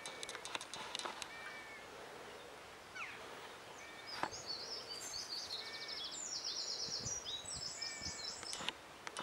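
Songbirds singing: short whistled notes come now and then throughout, and a high, rapid trilled song runs from about four seconds in to near the end. Scattered light clicks are heard.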